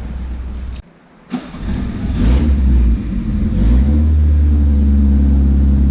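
Motorhome's petrol engine starting with a sudden catch, revving up twice, then holding a steady fast run, freshly repaired after a dirty fuel tank had made it misfire.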